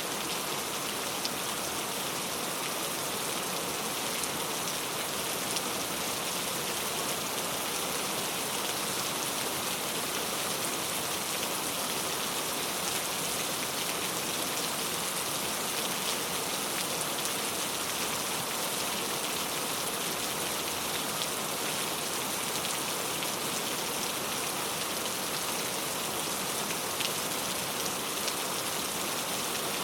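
Steady heavy rain falling, an even hiss with scattered individual drop ticks.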